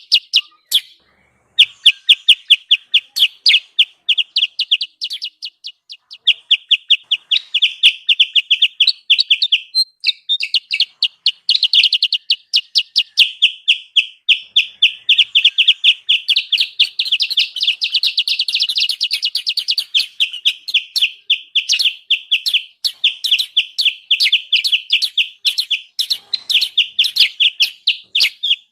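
Kutilang sutra lure call: a busy, noisy string of rapid short chirps, many per second, pausing briefly about a second in and again near the middle.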